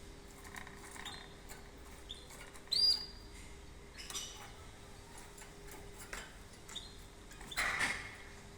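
Canary giving short, high chirps every second or two, the loudest about three seconds in, with a brief rustle near the end.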